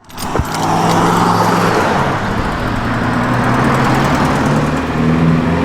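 A car's engine running with a steady low drone over road or exhaust noise, its pitch shifting slightly about five seconds in.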